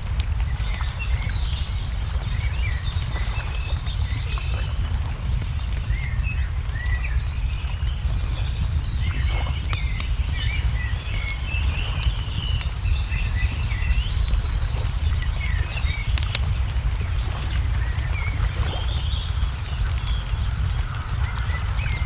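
Many small birds chirping and twittering, over a wood fire crackling with scattered sharp pops and a steady low rumble underneath.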